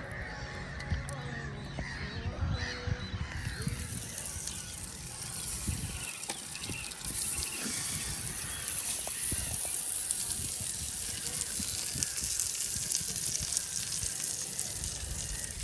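Geese honking for the first few seconds. A steady high hiss with fine crackling then takes over and runs on.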